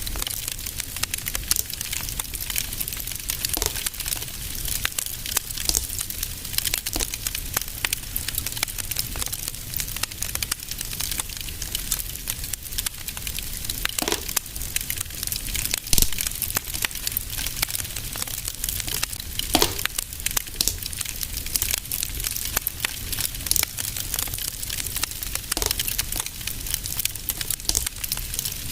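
Wood fire in a fireplace crackling steadily, with many small pops and a few louder snaps, over a low rumble of flame.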